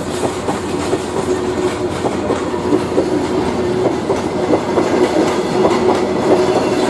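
Freight train wagons rolling past, their wheels clattering irregularly over rail joints, over a steady hum with a constant whining tone.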